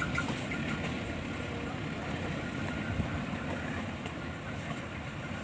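Passenger train moving away along the track, its running noise on the rails steady and slowly fading.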